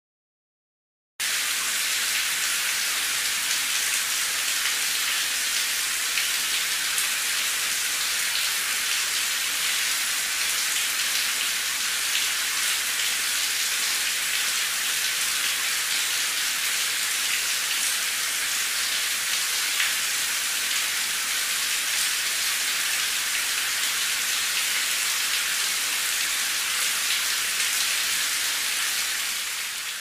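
Rain falling steadily: a dense, high-pitched hiss of many fine drops with little low rumble. It starts suddenly about a second in and fades out near the end.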